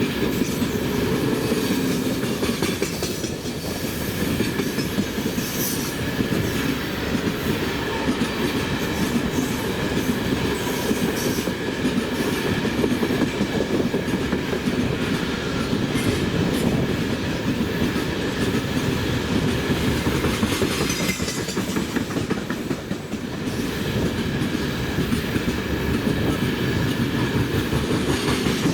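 Freight train rolling steadily past, its wagon wheels clattering over the rail joints, with a thin high ringing tone running under the clatter.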